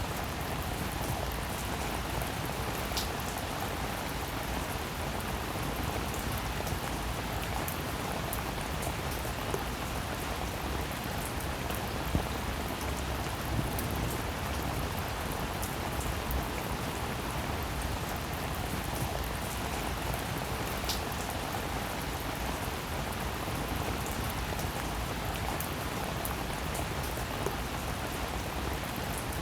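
Steady rain falling, a continuous even hiss with scattered sharper ticks of single drops.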